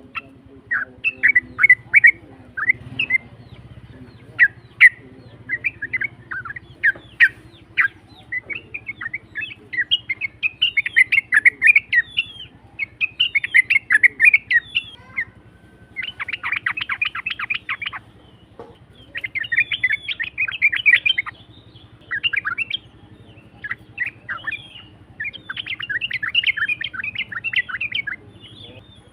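Yellow-vented bulbul (trucukan) singing a rough, chattering song of quick bubbly phrases, with fast rattling runs about two-thirds of the way in.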